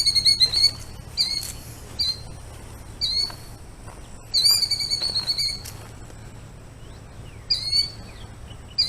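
Killdeer calling in alarm over its nest: shrill, high calls, a fast string at first, then single calls about a second apart, another quick run near the middle and a few more near the end. The bird is agitated at a person close to its eggs.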